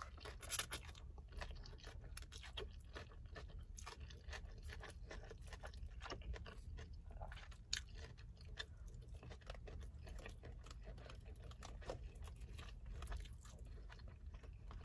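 Close-up mouth sounds of a person chewing a mouthful of lo mein noodles, many small wet clicks, faint over a low steady hum.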